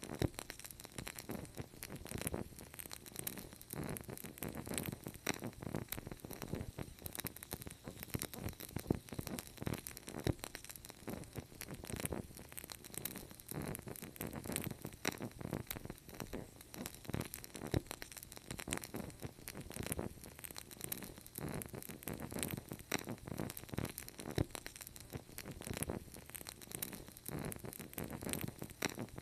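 Wood fire crackling in a fireplace: a dense, irregular stream of sharp pops and snaps over a steady low rumble of burning.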